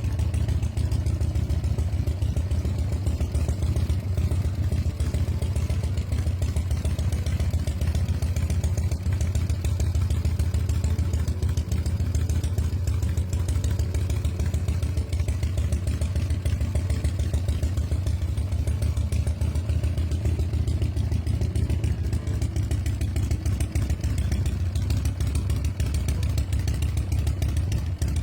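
1976 Harley-Davidson Shovelhead FX's V-twin engine running steadily with a low, even pulsing and no revving.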